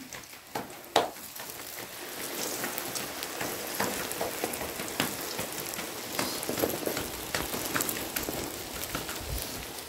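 Flatbread frying in shallow oil on a large metal griddle pan, the oil sizzling and crackling steadily. Two sharp metal clicks in the first second come from a spoon and fork against the pan as the bread is turned over.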